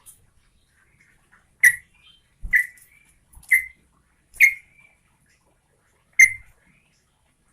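Yellow-vented bulbul (trucukan) giving five short, loud, sharp calls at roughly one-second intervals, with a longer gap before the last.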